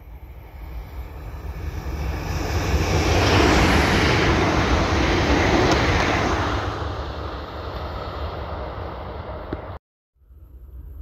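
Renfe Alvia high-speed train passing close by: a rush of wheel and air noise that builds, peaks about four seconds in and fades away, cutting off suddenly near the end.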